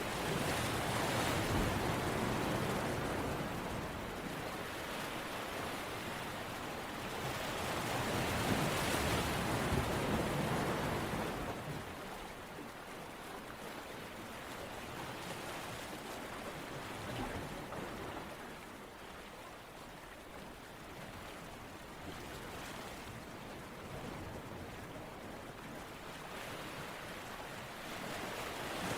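Ocean surf: a steady wash of waves that swells twice, about a second and about nine seconds in, then settles into a softer wash before building again near the end.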